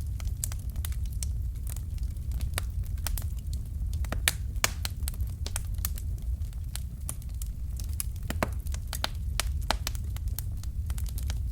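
Fireplace fire crackling: irregular sharp snaps and pops, several a second, over a steady low rumble of the burning fire.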